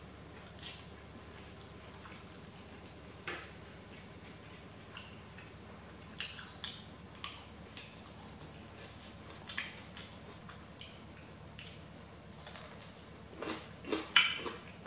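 Close-miked eating of yellow noodles: irregular wet mouth clicks and smacks of chewing, sparse at first, then more frequent, with a busy cluster near the end. A faint steady high-pitched whine runs underneath.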